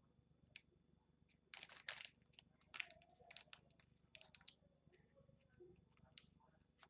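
Faint crinkling and rustling of a plastic sticker pack being handled and opened, in two spells of quick crisp crackles with scattered clicks between.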